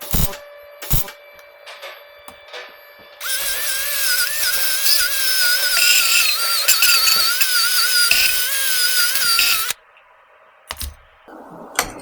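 A handheld power tool runs for about six seconds, starting abruptly about three seconds in and cutting off suddenly: a steady hissing noise with a whine that wavers in pitch. A few knocks come before it.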